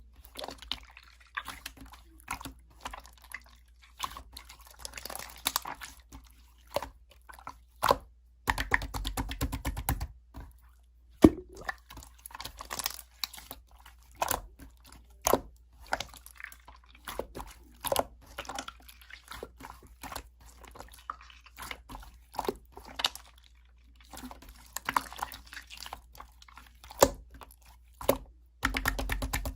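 Slime being squeezed and poked by hand, making irregular wet clicks and small pops, with two denser crackling stretches, one about a third of the way in and one near the end.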